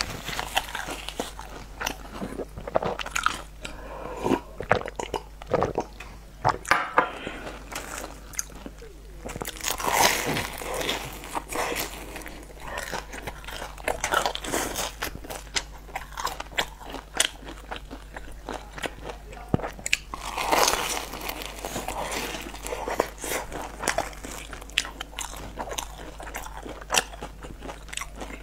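Close-miked biting and chewing of crumb-coated twisted bread rolls: many short, crisp crunches throughout, with denser bouts of chewing now and then.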